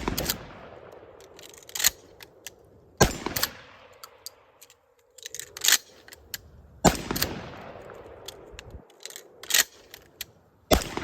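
Remington 870 12-gauge pump shotgun with a 12.5-inch barrel, firing about every four seconds. Each loud boom is followed by a long echo. A shorter, sharper clack comes about a second before each shot, as the pump is worked to chamber the next shell.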